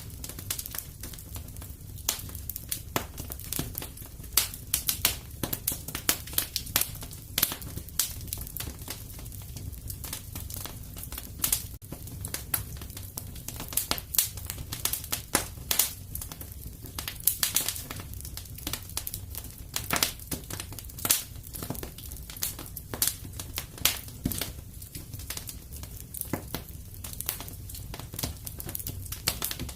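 Wood fire crackling in a fireplace: a dense, irregular run of sharp pops and snaps over a steady low rumble of burning.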